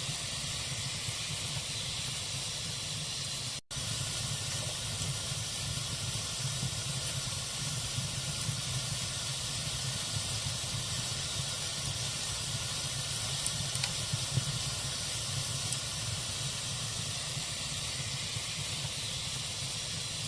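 Log fire burning in a fireplace: a steady hiss with a few faint crackles about two-thirds of the way through. The sound cuts out for an instant about three and a half seconds in.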